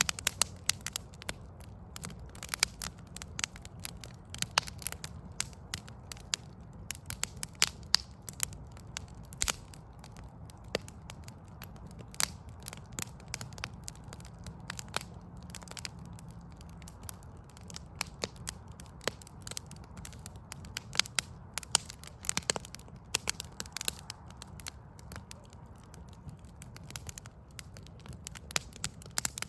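Wood fire burning in a pile of logs, crackling and popping irregularly over a low steady rumble.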